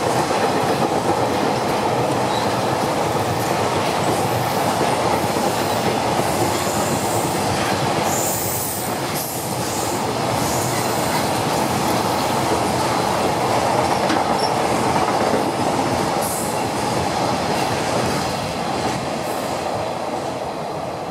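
Freight train of Koki container flatcars rolling past: a steady rumble and clatter of steel wheels on rail, with brief high-pitched wheel squeals a few times. The noise eases off near the end as the last wagons go by.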